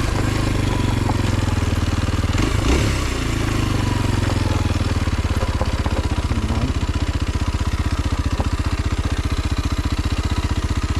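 Kawasaki KLX230 SM's single-cylinder four-stroke engine running, its revs falling over the first few seconds, with a short knock partway through, then settling into a steady, evenly pulsing idle.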